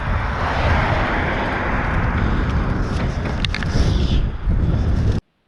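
Wind rumbling on an action camera's microphone with road and traffic noise while riding a fixed-gear bike, a hiss swelling about a second in. It cuts off suddenly near the end.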